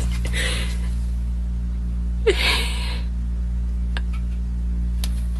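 A short, sharp burst of breath about two seconds in, like a sneeze or gasp, over a steady low hum.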